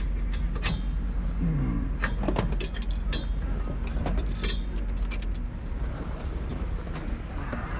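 Steady low rumble inside a race car's cabin, with scattered metallic clinks and jangling rattles.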